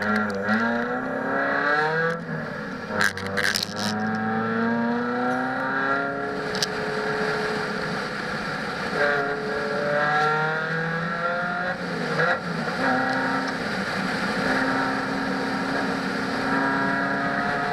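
Proton Savvy's 1.2-litre D4F four-cylinder engine under hard driving, heard inside the cabin. Its pitch climbs under acceleration and drops back several times as the car changes gear or lifts off. There are a few sharp knocks about three seconds in.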